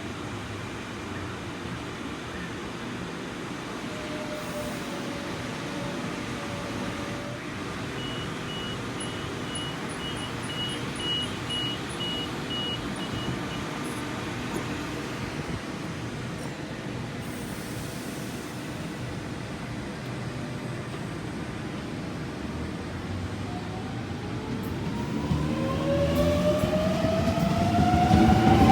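A train approaching over the last few seconds, growing louder with a rising whine, over a steady low rumble of background noise; a short run of high beeps sounds near the middle.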